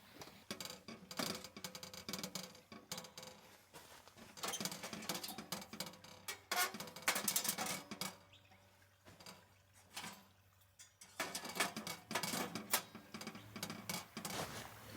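Irregular rustling, clicks and knocks of camping gear being handled, in bunches with short quieter gaps.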